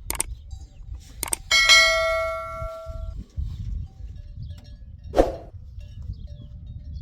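Sharp knocks, then a single metallic strike that rings out for about a second and a half. Another duller knock follows near the end.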